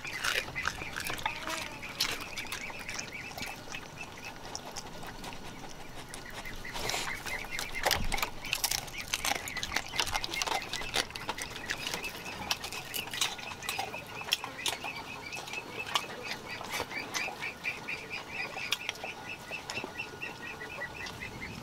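Bird calls repeated in quick, even series, with scattered short sharp clicks.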